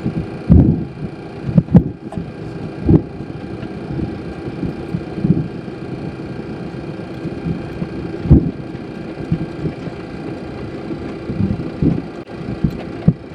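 Boeing 727-200 cockpit: the steady hum of its three JT8D turbofans running at low power on the ground, heard from the flight deck, with a few irregular low thumps.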